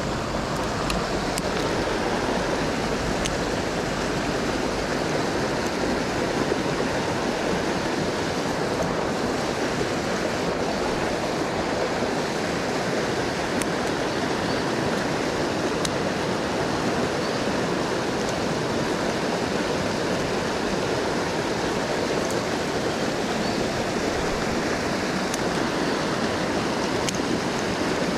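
Mountain stream rushing steadily over rocks, an even wash of water noise, with a few faint high ticks here and there.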